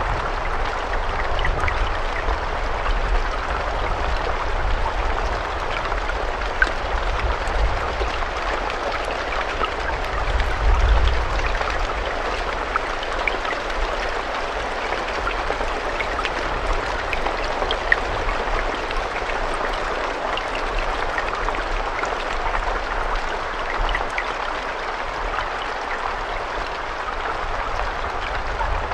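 Steady rain falling, with single drops ticking sharply now and then.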